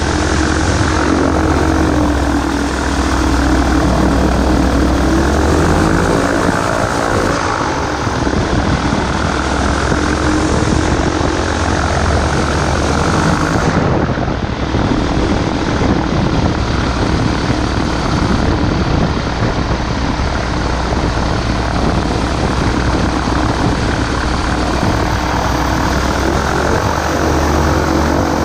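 Microlight aircraft's engine and propeller running, loud and steady. The engine note dips about six seconds in and comes back near the end.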